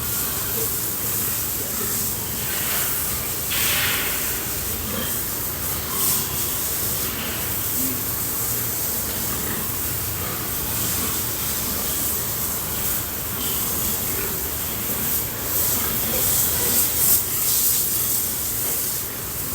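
Water spraying steadily from a hose onto pigs as they are washed down, with a few brief louder splashes.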